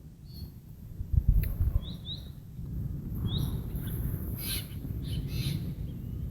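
Pet birds chirping: a few short, rising chirps, two close together about two seconds in and another a little after three seconds, over a low rumble.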